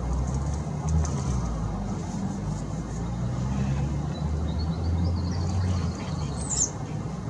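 A steady low rumble of road traffic, with a few short, high bird chirps in the second half.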